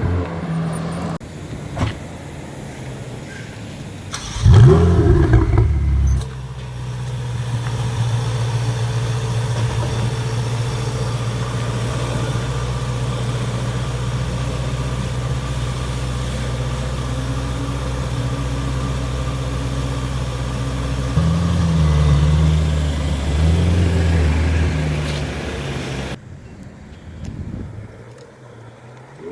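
Ferrari engine giving one loud, quick rev about four seconds in, then idling steadily. Near the end it gives two short throttle blips before the level drops away.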